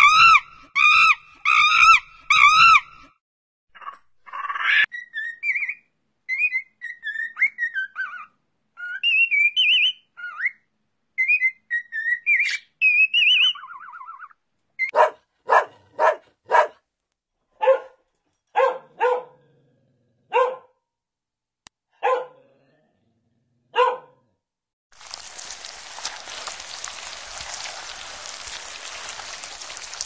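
A dog barking in short, sharp barks, about ten of them, unevenly spaced, through the middle of the clip. Before the barks come a quick run of repeated honking calls and then scattered high chirping calls. The last few seconds hold a steady hiss like falling water.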